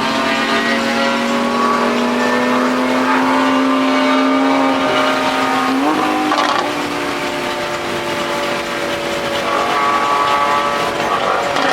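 Sports car engine running under way, its pitch slowly climbing, then stepping up sharply about six seconds in and easing down again.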